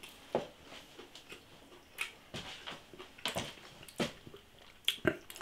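A man chewing breaded chicken chunks: a scattering of short mouth clicks and smacks, about one every half second to a second.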